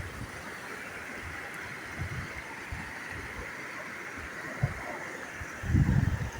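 Stream water rushing steadily, with irregular low rumbles of wind or handling on the microphone, loudest near the end.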